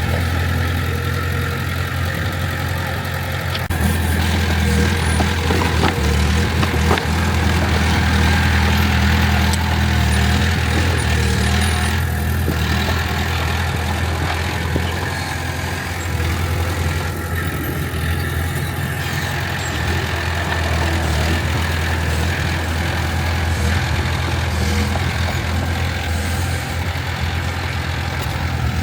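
Heavy diesel engine of earthmoving machinery running steadily, getting louder about four seconds in and settling back after about ten seconds. A few sharp clanks come around six to seven seconds in.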